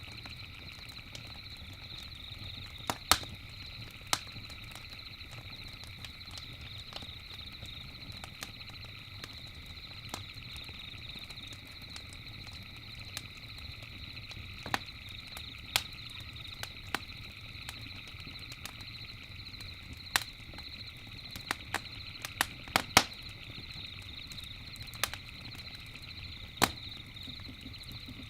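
Campfire crackling, with irregular sharp pops and snaps of burning wood, a few louder ones about three seconds in and near twenty-three seconds, over a steady high-pitched night ambience.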